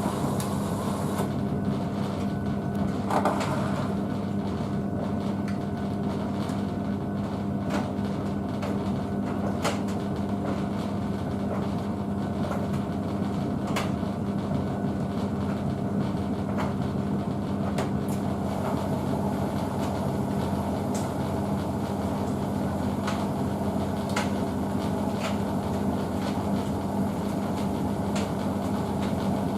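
Blomberg WNF9448 front-loading washing machine running in the first minute of a fast 40 °C wash. It gives a steady hum with light knocks every few seconds.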